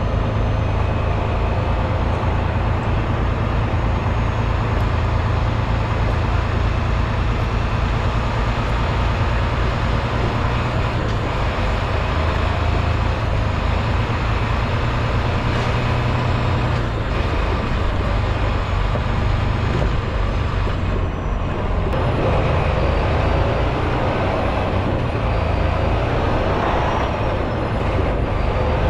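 Diesel engine of a Freightliner semi truck running steadily, a constant low drone.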